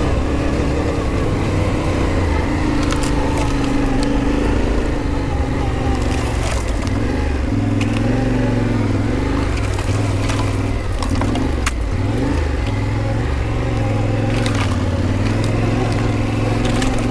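Adventure motorcycle engine running at low trail speed off-road, its pitch rising and falling with the throttle, with scattered clicks and knocks from the bike over rough ground.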